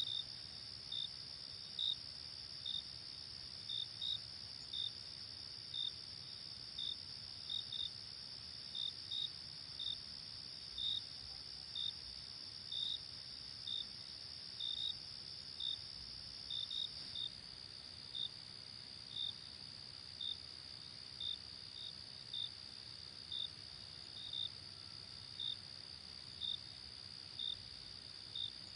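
Night insect chorus of crickets: a steady high trill with separate short chirps repeating more than once a second.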